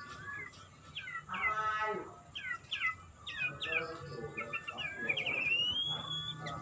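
White-rumped shama (murai batu) singing: a varied run of quick whistled notes that mostly slide downward, ending with a longer rising whistle near the end.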